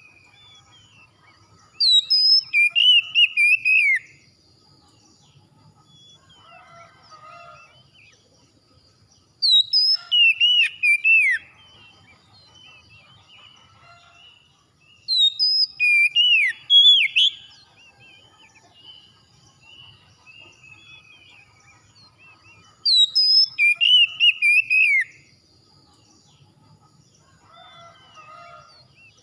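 Oriental magpie-robin song: four loud phrases of rapid, sliding whistled notes, each about two seconds long and coming every six to seven seconds, with faint chirping between them.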